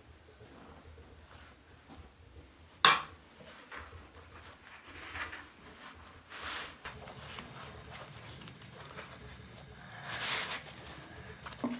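Kitchenware being handled: a single sharp clink or knock about three seconds in, then softer scrapes and rustles of dishes and utensils.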